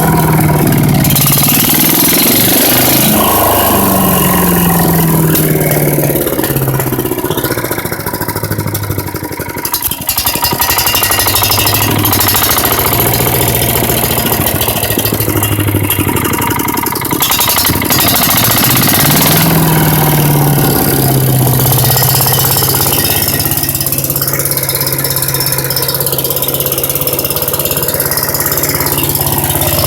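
Single-cylinder 5.5 HP Tecumseh OHV engine on a Yard Machines wood chipper running with no wood being fed, its speed rising and falling several times as the throttle is worked. It drops briefly about a third of the way in and picks up again about two-thirds of the way through.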